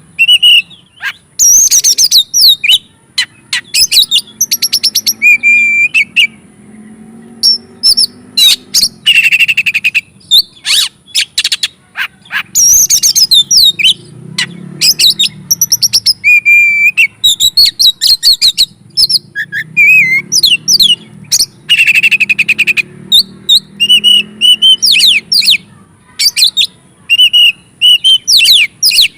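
Oriental magpie-robin (kacer) in fired-up song. It sings loud, rapid bursts of varied whistles, chirps and trills, with short pauses between phrases.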